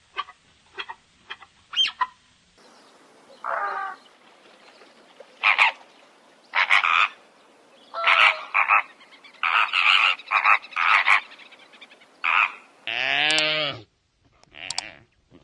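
A series of short, separate animal calls, about a dozen, with a longer pitched call near the end.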